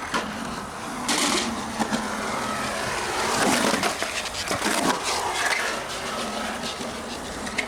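Skateboard rolling on rough concrete, the wheels making a continuous rumble, with scattered sharp clacks and knocks from the board.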